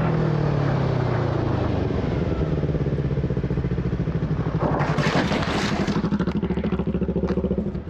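Motorcycle engine dropping in revs as the rider slows, then chugging in fast, even pulses at low revs. About five seconds in there is a rough, hissing scrape lasting about a second, typical of the bike sliding out on gravel.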